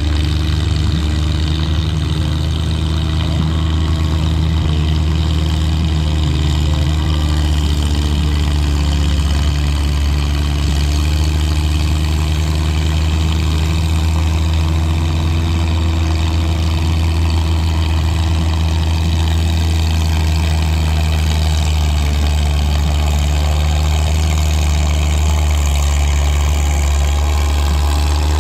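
Antique farm tractor engine running loud and steady at an even speed, with a strong low hum.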